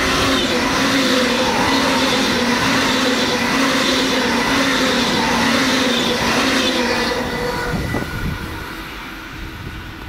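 ICE T high-speed electric train running through a station at speed: a loud rush of wheel and air noise with a steady whine over it, dying away after about seven seconds as the end of the train passes.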